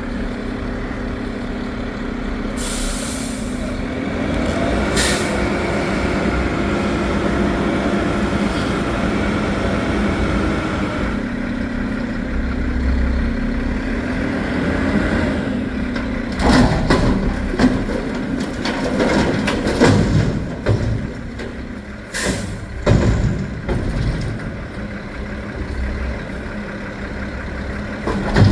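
Recycling truck's diesel engine running, with two short air-brake hisses early on and the engine rising in pitch for several seconds. In the second half comes a run of clattering knocks as bins are tipped and emptied into the truck.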